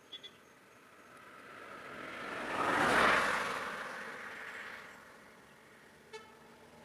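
A vehicle passing by: road and engine noise swells to a peak about three seconds in, then fades away.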